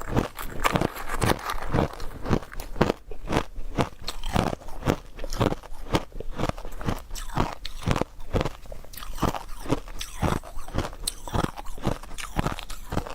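Close-up crunching of refrozen powdery ice being bitten and chewed: a quick, steady run of soft crunches, several a second.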